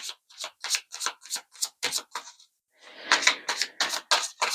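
A tarot deck being shuffled by hand: a run of quick card slaps, about four a second, a brief pause, then a second, denser run.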